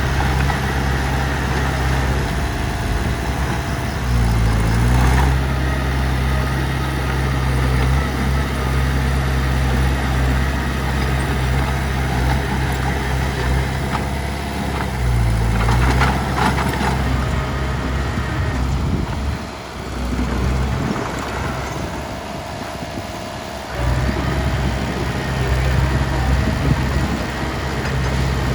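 Heavy diesel engine running at a steady idle. Its pitch dips and recovers twice, and a few short clanks come a little past the middle. The deep engine note then falls away for several seconds before coming back.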